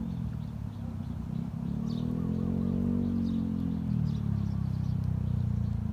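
A motor engine running close by, its pitch rising and then falling around the middle as it passes, with a few short bird chirps over it.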